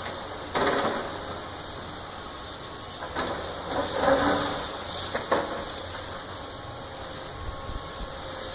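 House demolition: crunching crashes of the structure being broken and debris falling, one about half a second in and a cluster between three and five seconds in, over a steady machine noise and hiss.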